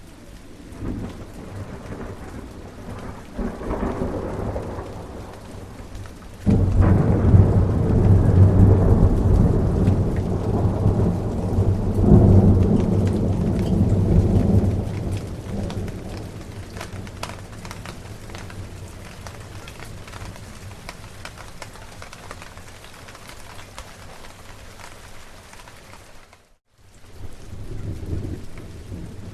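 Steady rain with rolling thunder: a low rumble about four seconds in, then a loud peal that breaks suddenly a few seconds later and rolls on for several seconds, swelling again before it fades. Near the end the sound cuts out for a moment, then another low rumble begins.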